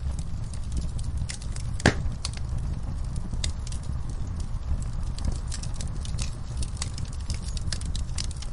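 Fireplace fire crackling, with many small sharp pops over a steady low rumble of the flames and one louder pop about two seconds in.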